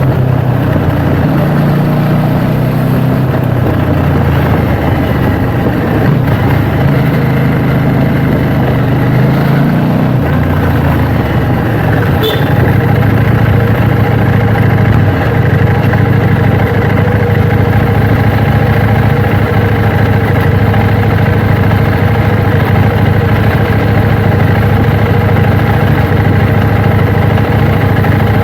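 KTM 790 Duke's parallel-twin engine running, its pitch shifting up and down for the first ten seconds or so and then holding steady.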